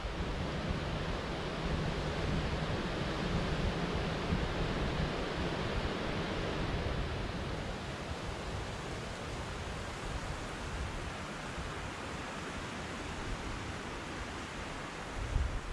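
Steady white-noise rushing hiss with a restless low rumble underneath, swelling slightly then easing off a little.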